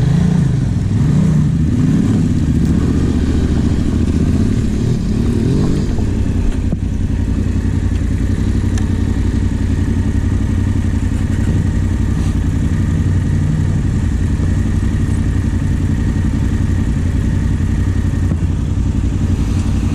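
Motorcycle engine revving, its pitch rising and falling for the first six seconds or so, then running steadily.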